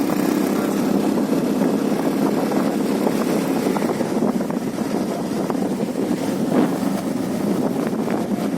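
A vehicle running: a steady, dense low rumble with no breaks.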